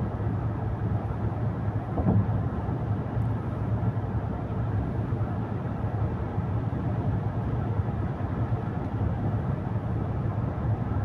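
Steady road and engine noise inside a moving car, a low, even rumble.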